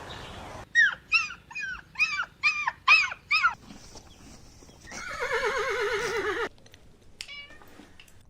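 Animal calls: a run of about eight short, yelping calls, then a longer warbling call about five seconds in, and one brief high call near the end.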